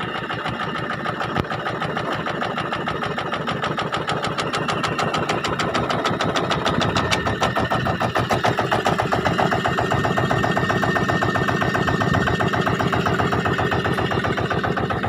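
Small boat engine running with a fast, even firing beat, building up over the first few seconds and then holding steady under way.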